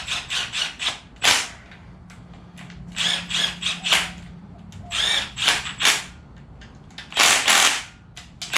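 Ratchet wrench clicking in short spurts as bolts are run down on an engine long block, several quick clicks a second, with pauses between spurts.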